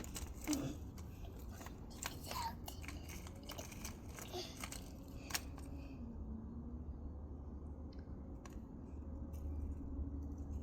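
Toy trucks crunching and scraping through gritty mud, with scattered sharp clicks in the first half and a quieter stretch after. A steady low rumble runs underneath.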